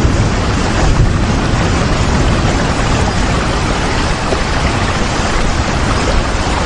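Steady rain: a dense, even hiss with a deep rumble beneath it.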